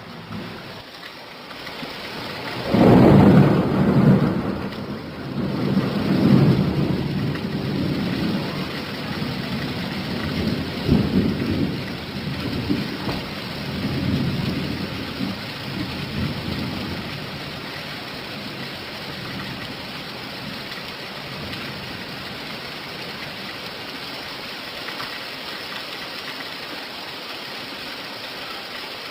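Steady rain with a long roll of thunder. The thunder breaks about three seconds in, rumbles on in several swells, and dies away by about halfway, leaving only the rain.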